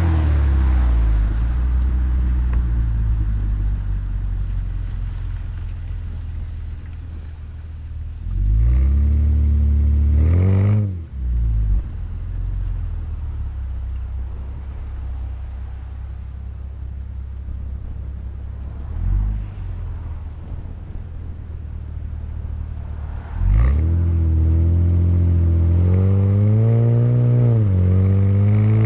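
3.7-litre V6 of an Acura TL SH-AWD with an ATLP aftermarket exhaust, under hard acceleration. The note falls away at first, a short rising rev cuts off abruptly about a third of the way in, and after a quieter stretch a loud full-throttle pull starts suddenly near the end, rising in pitch, dipping briefly at a gear change and rising again.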